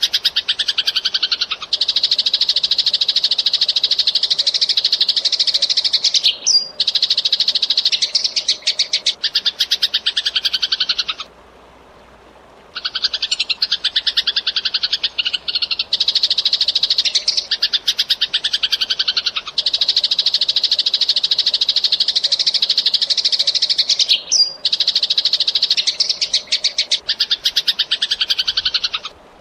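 Eurasian tree sparrow chirping in long, very fast, dense runs, with a pause of about a second and a half about 11 seconds in and another at the very end. The same stretch seems to repeat about every 18 seconds, as in a looped recording.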